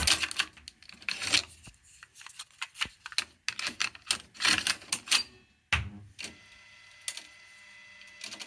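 Irregular run of sharp clicks and clatters from the Pioneer KEH-M7400RDS car radio-cassette deck being operated between tracks, followed for the last few seconds by a faint steady hum with a thin tone in it.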